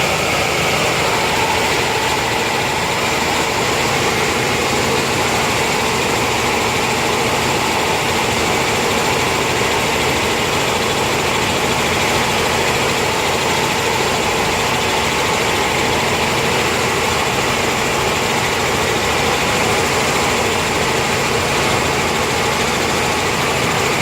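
Helicopter running steadily in flight: a loud, unchanging drone with a few constant whining tones over it.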